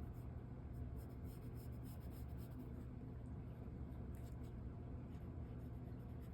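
Short, faint scratching strokes of drawing on paper, over a steady low hum.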